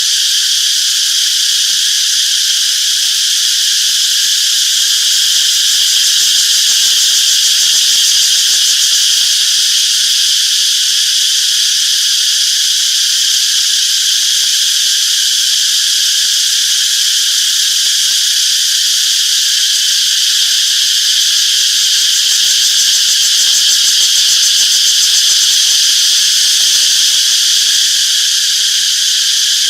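Chorus of cicadas calling in a loud, steady, high-pitched drone that holds without a break.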